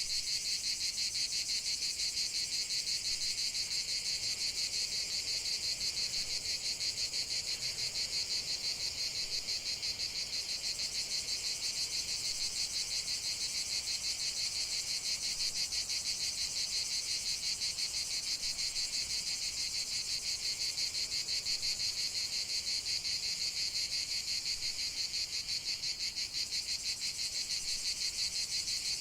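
Steady chorus of crickets trilling, a dense high-pitched pulsing that never pauses.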